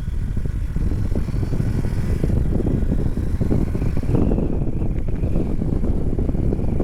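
Riding noise on a BMW R 1250 GS motorcycle under way: wind rushing and buffeting over the microphone, with the bike's boxer-twin engine running underneath.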